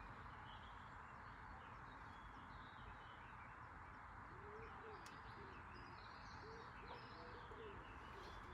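Faint cooing of a bird, a few low arched coos starting about four seconds in, over a steady faint hiss.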